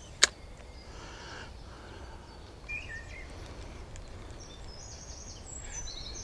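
Birds chirping: a short call about three seconds in, then high, repeated chirps near the end, over a low steady outdoor rumble. A single sharp click, the loudest sound, comes just after the start.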